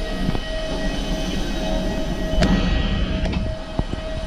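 Steady engine rumble with a constant whine, broken by a few sharp clicks and knocks.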